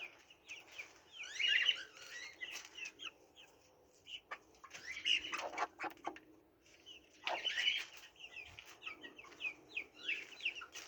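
Small chicks peeping in many short, high chirps, with hens clucking and louder flurries of flapping and scuffling about a second and a half, five and a half, and seven and a half seconds in.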